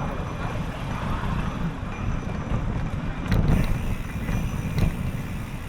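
Wind buffeting the microphone of a camera riding on a moving bicycle, over a steady road rumble. Two sharp knocks come about three and a half and five seconds in.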